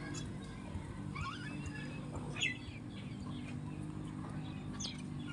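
Sparrows chirping: scattered short chirps and a few quick rising notes, the loudest about two and a half seconds in, over a steady low hum.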